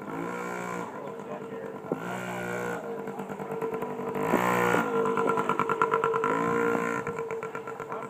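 Small dirt bike engine running, getting louder from about halfway in as it revs.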